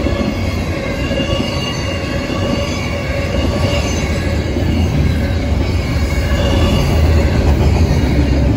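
Double-stack intermodal well cars rolling past: a steady rumble of steel wheels on rail, with several steady high-pitched wheel-squeal tones running over it, getting a little louder near the end.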